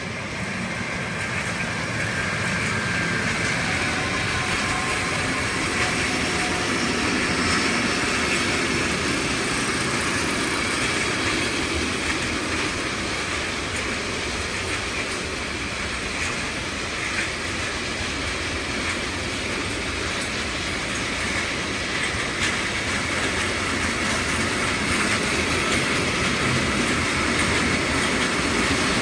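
A long freight train's wagons rolling past: a steady, continuous rumble and rattle of steel wheels on the rails.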